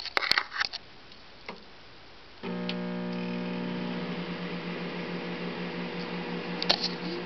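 A few sharp clicks, then about two and a half seconds in a Samsung Mini Chef microwave oven switches on and runs with a steady electrical hum made of several pitched tones. There is a single click near the end.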